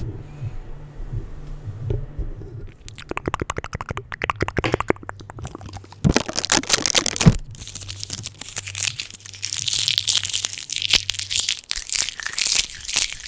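Adhesive tape on a microphone, tapped, pressed and peeled, making rapid sticky crackling. It is sparse at first and turns into a dense run of fast crackles about three seconds in, with a brighter scratchy stretch later on.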